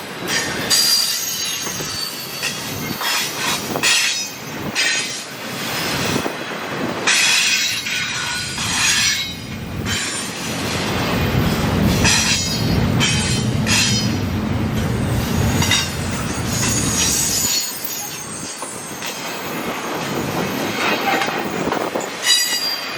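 Train rolling past on the rails, its wheels squealing in short high bursts over a run of clanking and clattering. A heavier low rumble builds in the middle.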